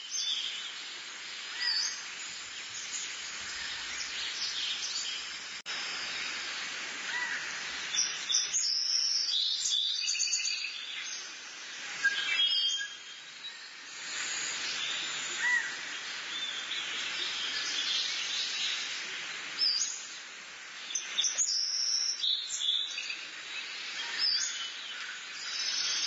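Birds chirping in short, scattered calls over a steady background hiss of outdoor ambience.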